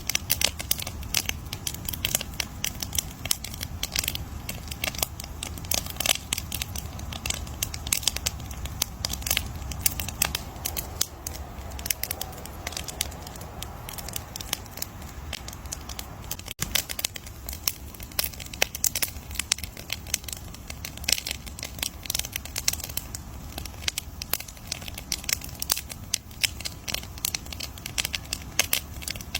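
Wood campfire crackling: dense, irregular snaps of burning wood over a steady low rumble.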